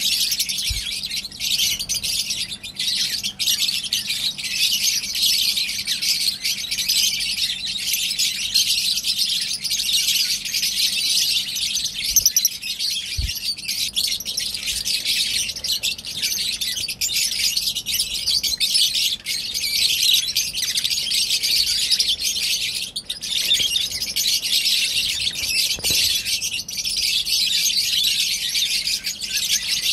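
Lovebirds chattering: many high-pitched chirps and calls overlapping in a steady, unbroken din.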